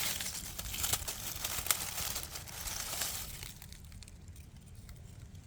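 Rustling and crackling in dry leaf litter for about three and a half seconds, then fading to faint background.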